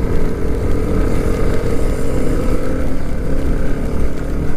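Motorcycle engine running at a steady cruising speed, its even note over a continuous low rumble of wind and road noise.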